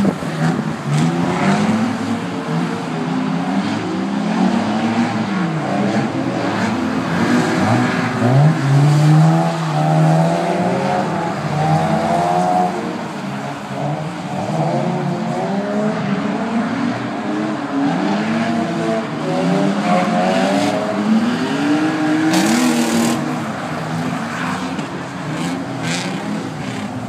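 Drift cars' engines revving up and dropping back over and over as they slide around a track, several engine notes overlapping, with a brief hiss about 22 seconds in.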